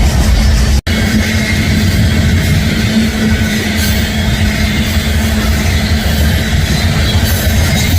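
Union Pacific eastbound manifest freight train passing close by: a loud, steady rumble of the rolling train with a steady hum, broken once by a split-second dropout just under a second in.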